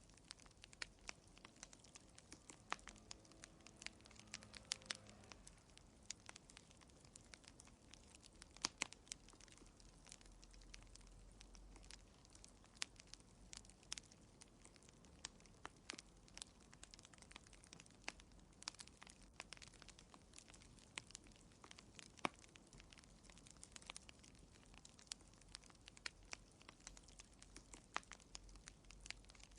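Fire burning in a fireplace, crackling quietly with irregular sharp pops several times a second. The loudest pops come about nine and twenty-two seconds in.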